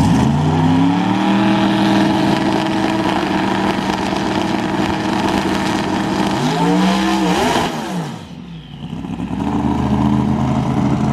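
Twin-turbo 4.9 Noonan Hemi drag car running hard on a test pass: the engine note climbs in the first second, then holds steady at high revs. About seven seconds in the pitch swings up and then falls away as the sound fades, before a steady engine note returns near the end.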